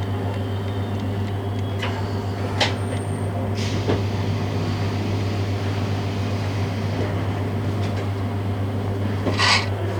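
Steady low hum inside a 651 series electric train car, with a few short hisses, the loudest near the end.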